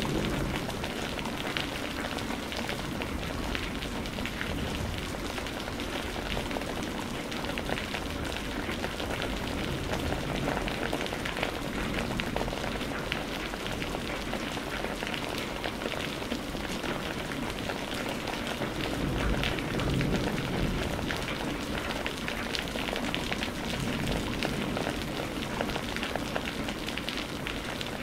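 Steady heavy rain falling on a surface, a dense patter of drops, with a slight low swell about two-thirds of the way through.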